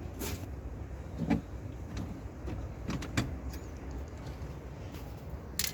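Scattered light clicks and knocks of small steel valve-train parts, rocker arms and tappets, being pulled out of a 16-valve diesel cylinder head, about six in all, over a steady low hum.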